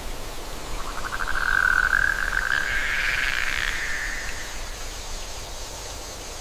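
A rapid pulsing animal trill that rises slightly in pitch and fades out past the middle, over a steady rushing nature ambience.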